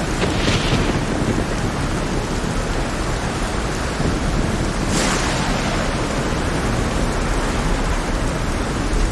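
Heavy rain in a storm, a dense steady hiss over a deep continuous rumble. Two brief hissing surges rise out of it, about half a second in and again about five seconds in.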